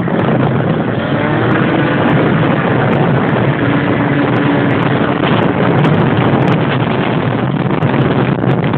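Motorcycle engine running steadily, mixed with loud wind rush on the microphone.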